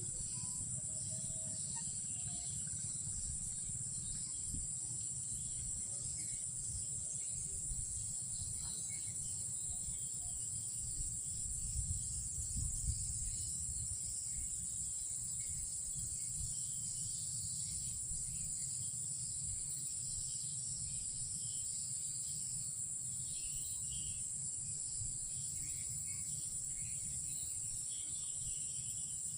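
Steady, unbroken high-pitched insect chorus, with a low rumble underneath and a few soft knocks about halfway through.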